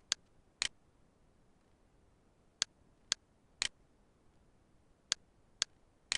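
Computer mouse clicking: eight sharp, short clicks, a pair and then two groups of three, each click about half a second after the last.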